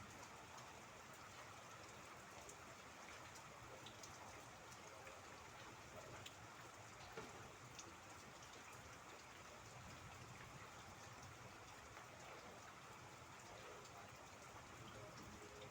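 Faint steady rain, with individual drops ticking at scattered moments over an even hiss.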